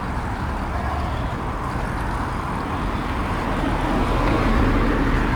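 Steady city street traffic noise with a low rumble, swelling a little about four seconds in.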